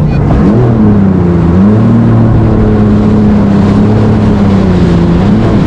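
Jet ski engine running and revving under the throttle: its pitch rises, dips and then holds steady, drops again near the end and climbs back up.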